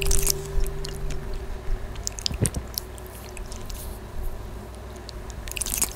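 Wet chewing and squishing sounds: irregular crackly clicks, thickest at the start and again near the end. A held musical tone fades out in the first second or so.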